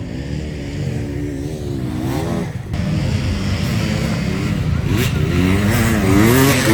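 Motocross motorcycle engines revving, their pitch rising and falling over and over. A louder bike builds up from about a third of the way in and is loudest near the end.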